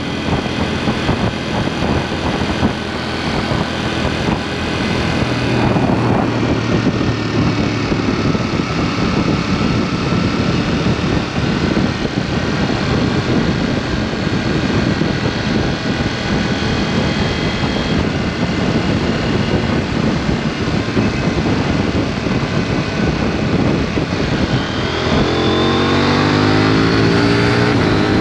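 KTM 790 Duke's parallel-twin engine through an aftermarket SpeedPro Cobra SPX exhaust, running steadily at road speed under wind and road noise. Near the end it accelerates, its note rising.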